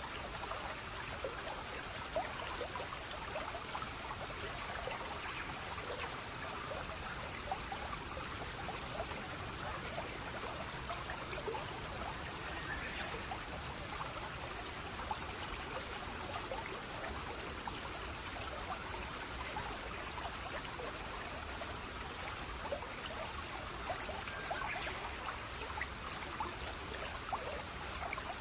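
Running water in a small stream, trickling and splashing steadily with many small droplet splashes.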